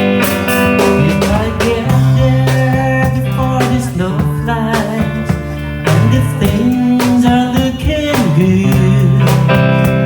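A band playing a slow country-folk song: guitars over a steady drum beat, with some singing.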